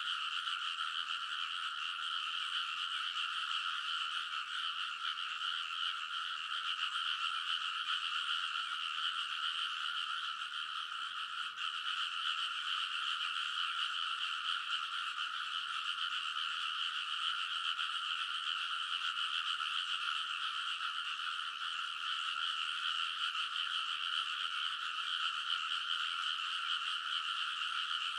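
A dense chorus of many frogs croaking together: an unbroken wall of overlapping calls, steady in level and fairly high in pitch.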